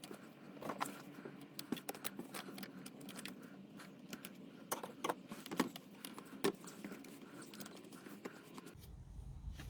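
Irregular light clicks and scrapes of hands working in a car engine bay, handling and unclipping hoses and wiring connectors, with a few sharper clicks among them.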